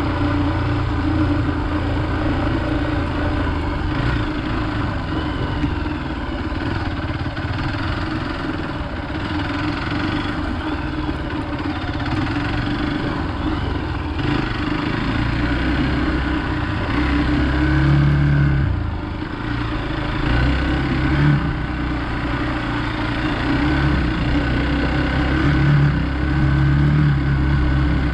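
Hero Xpulse 200 motorcycle's single-cylinder engine running as the bike is ridden, held at a steady throttle at first, then with several short throttle openings in the second half.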